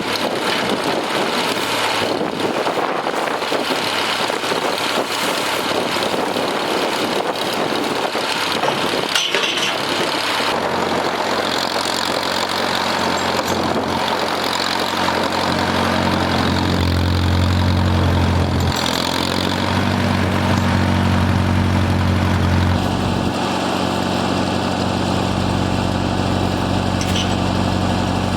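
Farmall M tractor engine running, its pitch shifting a few times, with gusty wind noise on the microphone during the first third.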